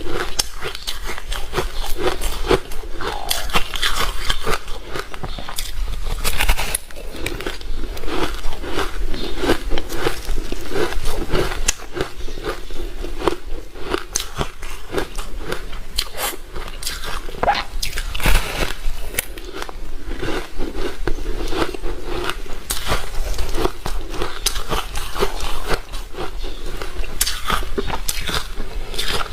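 A person biting and chewing ice close to the microphone: a continuous run of crunches and crackles.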